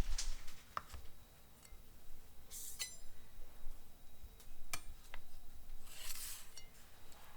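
Kitchen food-prep handling sounds: scattered light clicks and knocks, with two short rubbing, rustling scrapes a couple of seconds in and again near the end.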